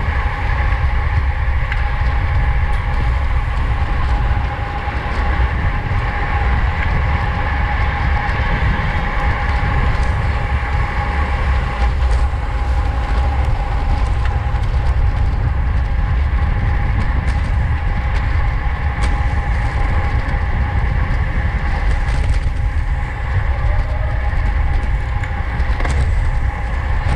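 Steady wind rush and rolling road noise from a road bike at race speed, with a constant high hum and occasional light clicks.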